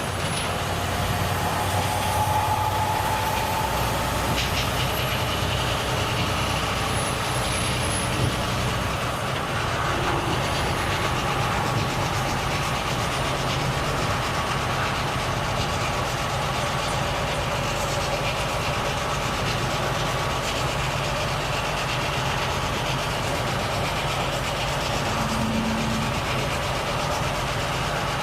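Volvo FH truck driving along steadily: the engine's steady drone mixed with rumbling road and tyre noise.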